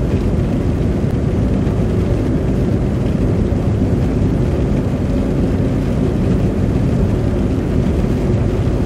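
Steady road noise inside a moving car, its tyres running through wet slush, with the engine and a defroster fan blowing hot air underneath.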